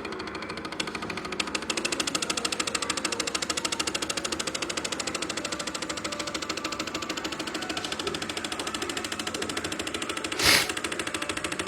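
Stepper motors of a home-built Arduino GRBL CNC machine running, a fast even buzzing rattle of pulses that gets a little louder about two seconds in. A short loud hiss cuts in about ten and a half seconds in.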